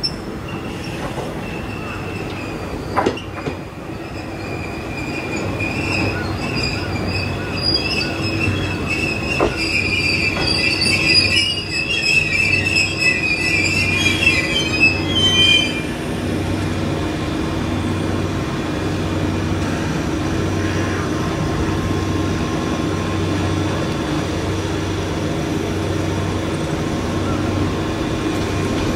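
JR West 105 series electric commuter train pulling into the station and braking to a stop, with a high, shrill squeal that grows louder and cuts off suddenly at the stop about halfway through, and a couple of wheel clacks over the rails in the first ten seconds. After it stops, the standing train's equipment gives off a steady hum with a slow low pulse.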